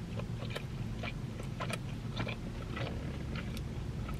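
Close-miked chewing of a mouthful of burger: soft, irregular clicks and smacks of mouth and food over a low steady hum.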